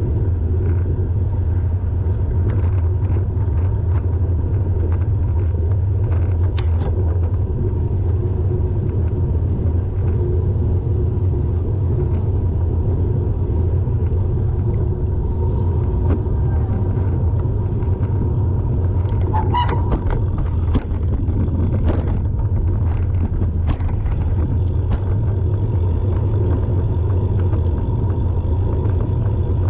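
Car in slow traffic: a loud, steady low rumble, with a brief high-pitched squeal about twenty seconds in.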